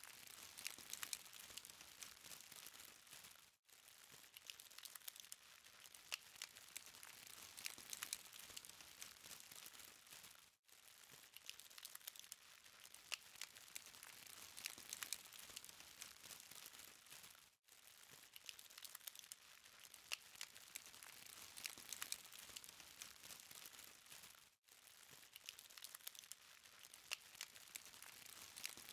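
Charcoal fire crackling softly, a dense scatter of faint, high-pitched ticks and pops over a light hiss, with a brief gap about every seven seconds.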